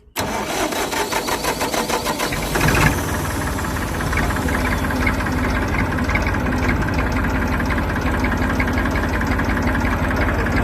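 Rebuilt Prestolite starter motor cranking the Massey Ferguson 250XE tractor's diesel engine, which catches after about two and a half seconds and then runs steadily at idle.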